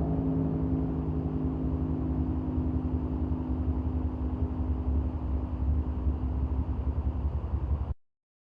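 Turbocharged 427 LSX V8 of a drag truck running at low, steady revs with a deep rumble. The sound cuts off abruptly near the end.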